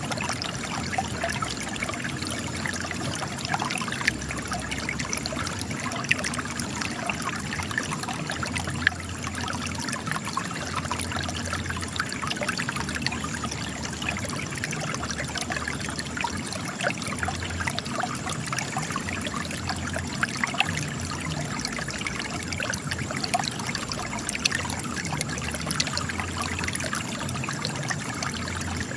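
Spring water trickling and splashing steadily out of cracks in rocks, with many small droplet splashes.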